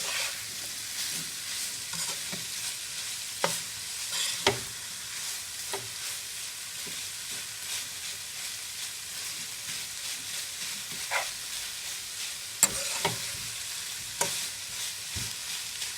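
Chicken and vegetables sizzling in a pan while being stirred, with a steady hiss and the spoon knocking against the pan now and then.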